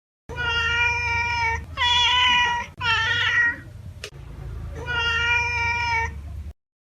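Cat meowing: four drawn-out meows, the third falling in pitch, over a low steady hum.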